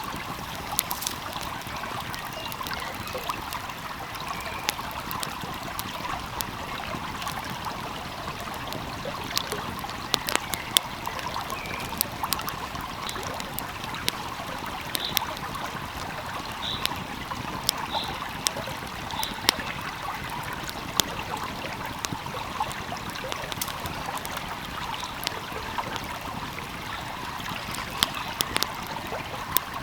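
A small stream flowing steadily, with a wood fire crackling over it in sharp, irregular pops.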